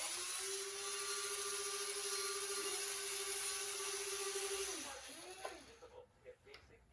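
Small electric motor of an RC excavator's hydraulic pump whining at a steady pitch, then slowing and cutting out about five seconds in, followed by a few light clicks.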